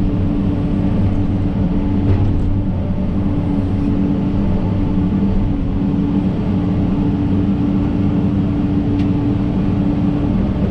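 John Deere 130G excavator's diesel engine running steadily at working speed, with a light knock about two seconds in and another near the end.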